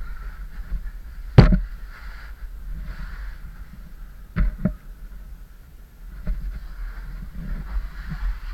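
Knocks and clicks from a caver moving over rock: one loud, sharp knock about a second and a half in, then two smaller clicks around four and a half seconds, over a low rumbling noise.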